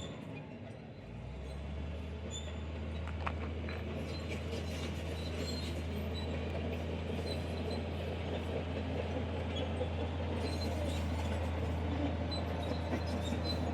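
Heavy earthmoving machine's diesel engine running under load, with metallic rattling and clanking over it. The engine dips briefly about a second in, then picks back up and runs steadily.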